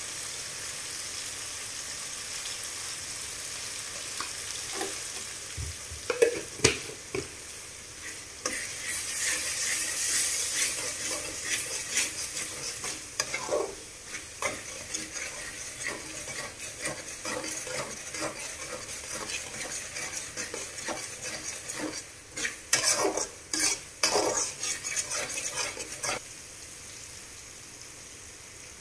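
Onion-tomato masala sizzling as it fries in oil in an aluminium kadai, with a steel spatula scraping and knocking against the pan as it is stirred. The stirring comes in bursts, the busiest spell near the end, before the sizzle drops lower.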